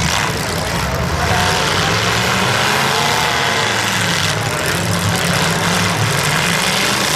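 Demolition derby car engines running loudly together: a steady low engine drone with rough noise over it.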